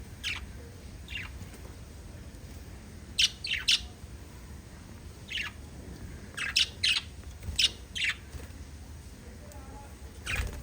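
Small pet parrots giving short, sharp chirps, scattered at first, then in quick clusters of two or three calls about three seconds in and again a few seconds later.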